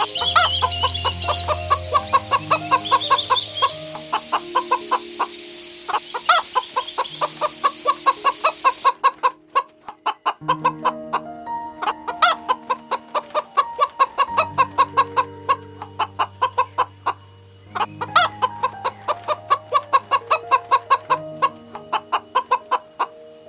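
Domestic hen clucking in quick runs of short clucks, several a second, broken by brief pauses, over background music.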